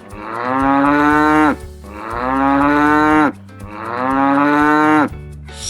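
Cow mooing: three long moos, one after another, each dropping in pitch at its end.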